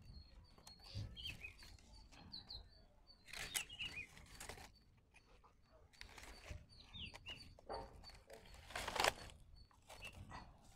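Faint birds chirping in short calls, with several brief rustling and handling noises among the squash vines, the loudest about nine seconds in.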